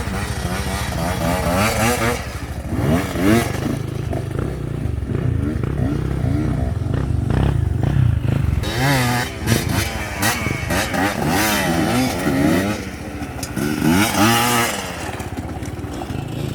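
Chinese-made motocross bike's engine running and revving up and down repeatedly, the pitch rising and falling every second or so.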